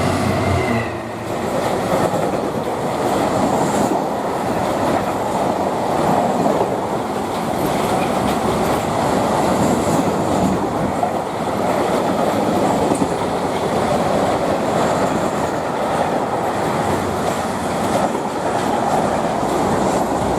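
Freight train hauled by a Class 66 diesel locomotive passing, with a steady rumble and clatter of wagon wheels on the track.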